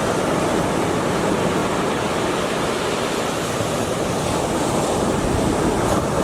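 A steady, even rushing noise, unbroken throughout, with no calls or distinct sounds standing out.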